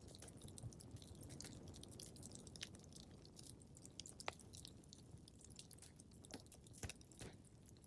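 Wood fire crackling in a fireplace: quiet, irregular pops and snaps over a low rumble of burning logs, with a sharper pop about four seconds in.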